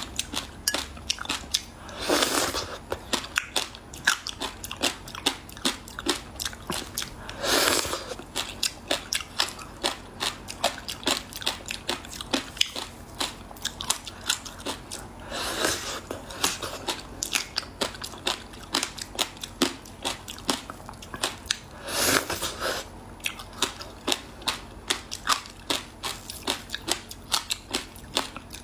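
Close-up crunching and chewing of frozen passion fruit ice: rapid crisp crunches throughout, with four louder bites spaced several seconds apart.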